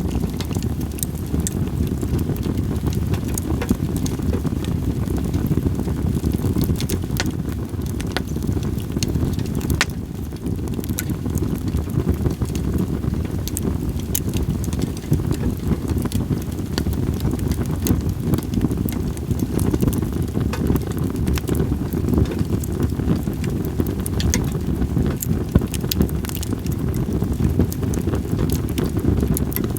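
Split sawtooth oak (kunugi) firewood burning, crackling with many sharp pops over a steady low rumble of wind on the microphone.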